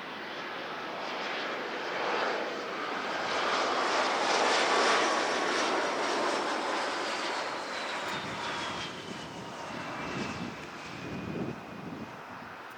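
Jet airliner passing by: the engine noise swells to its loudest about four to five seconds in, then fades, with a high whine falling steadily in pitch as it goes past.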